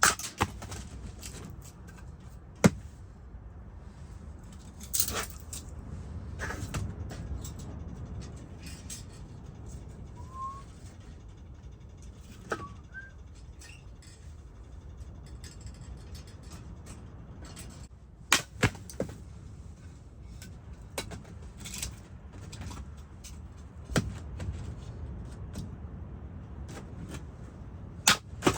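Scattered sharp knocks and clicks, two of them in quick succession about two-thirds of the way through, over a steady low rumble.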